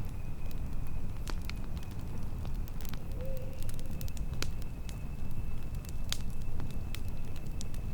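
Campfire burning: scattered sharp crackles and pops of burning wood over a steady low rumble.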